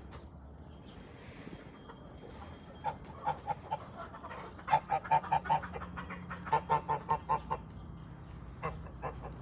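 Ducks quacking in quick runs of short, evenly spaced calls, about five a second, with several runs a second or two apart.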